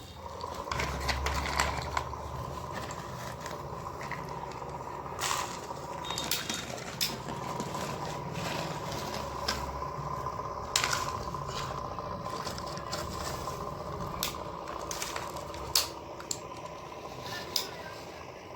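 Plastic toy excavator and toy trucks being worked by hand in loose soil: scraping, crunching and irregular sharp clicks and knocks as dirt is scooped and tipped, with a low rumble during the first half.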